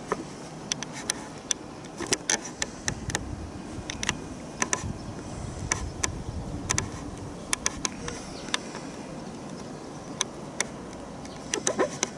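Wind rumbling on the microphone, with scattered sharp clicks and taps at irregular intervals, some in quick clusters.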